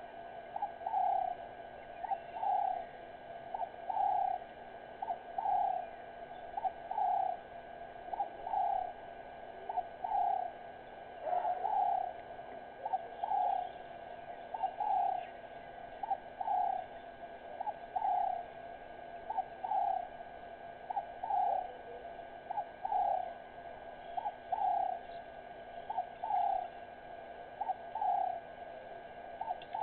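A bird calling over and over, a short note followed by a longer falling note, repeated about every second and a half.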